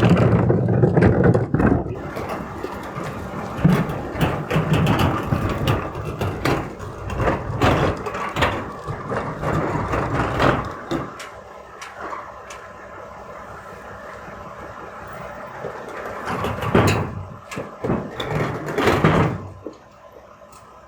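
Garbage truck running, with many sharp metal clanks and rattles over its engine. The clanking is heavy through the first half, eases off in the middle, and comes back in a short burst near the end.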